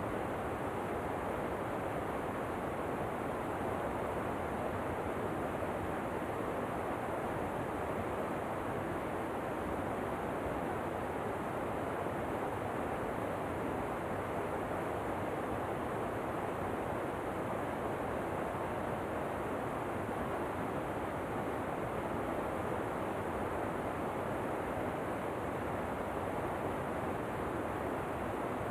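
Steady rushing noise of falling water, a waterfall ambience that stays even throughout.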